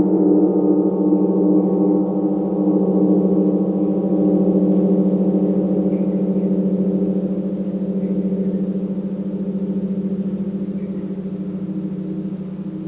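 A gong ringing on in a sustained, layered hum of low tones that pulse and shimmer, slowly fading.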